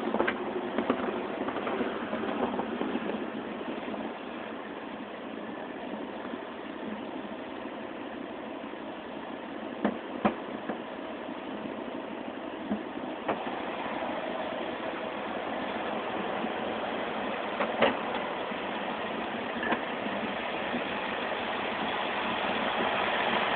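2011 Mustang GT's 5.0 Coyote V8 idling steadily through its Corsa axle-back exhaust, with a few short clicks about ten seconds in and again near the end.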